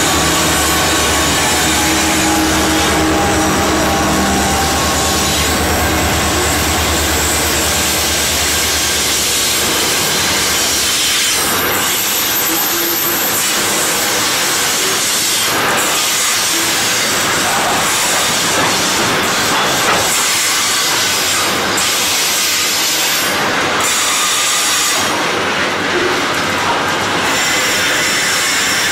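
Grain train passing close by. The diesel locomotive engine drone fades over the first ten seconds, then the grain hopper wagons roll past with a steady wheel-on-rail rumble and scattered clicks.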